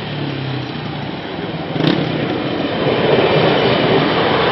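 A diesel multiple unit train passing close by, its engine and wheel noise getting louder from about two seconds in.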